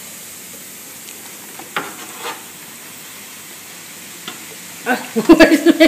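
Baking-soda-and-vinegar reaction in a model volcano fizzing: a faint, steady hiss of bubbling foam, with a few soft clicks.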